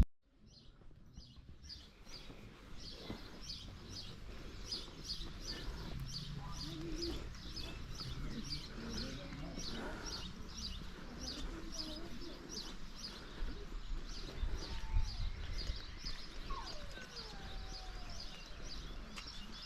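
A small bird chirping over and over, short high notes at about two to three a second, starting about two seconds in.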